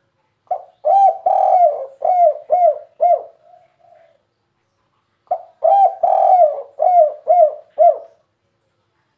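Spotted dove (tekukur) singing its 'kuk 3' song: two cooing phrases, each a short note, a longer rolling coo and then three short 'kuk' notes.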